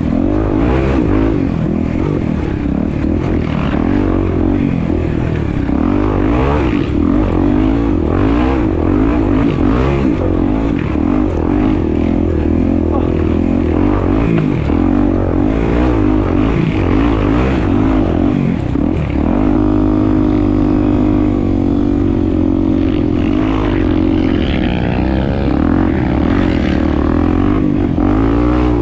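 Honda Tornado 250 single-cylinder four-stroke motorcycle engine under way off-road, revs rising and falling constantly, then holding steadier from about two-thirds of the way through.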